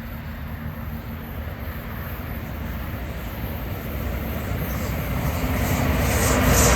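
An approaching train: a low, steady rumble that grows steadily louder, with a hiss rising over it in the last couple of seconds as it nears.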